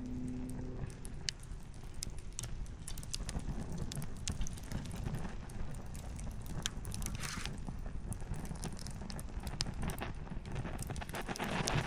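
Wood campfire crackling: scattered sharp pops and snaps of burning firewood over a low steady rumble.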